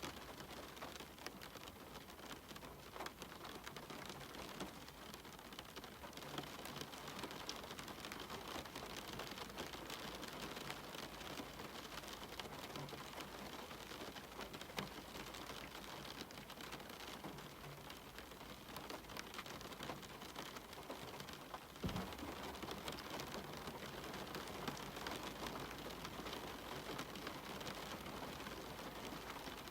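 Steady rain, with many separate drops ticking against a cabin window, and one sharper click about two-thirds of the way through.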